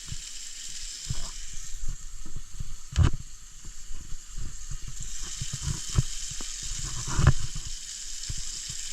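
Burger patty sizzling in a hot pan, a steady hiss of frying, with scattered low thumps and bumps, two louder ones about three seconds in and near the end.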